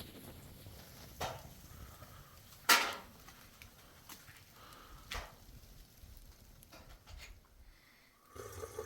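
A few separate sharp knocks or clatters, the loudest about three seconds in, and a short call-like sound near the end.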